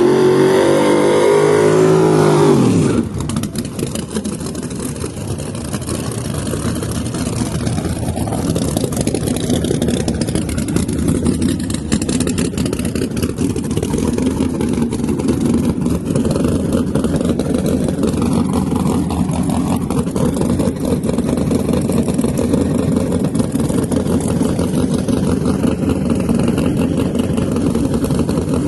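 A drag car's engine revs hard, rising in pitch for about three seconds, then cuts off sharply. After that a loud engine runs steadily with a rough, rapid pulse, idling or held at low revs.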